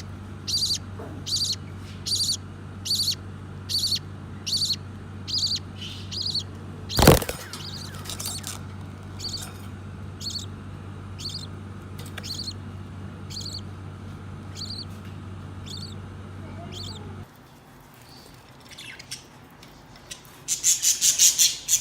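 Parakeets calling. A loud, regular series of high calls comes about once every 0.8 s, then fainter scattered calls, and a rapid burst of chattering near the end. A sharp knock comes about seven seconds in, and a steady low hum stops about three-quarters of the way through.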